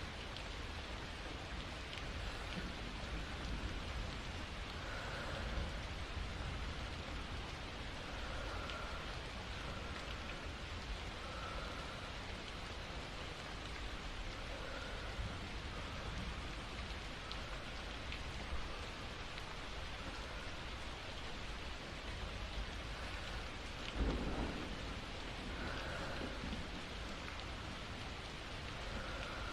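Steady rain falling, with soft slow breathing every few seconds. A single roll of thunder about four-fifths of the way through.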